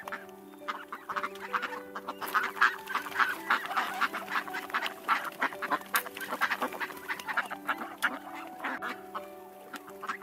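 Poultry calling in a rapid run of short calls, busiest in the middle, over steady background music.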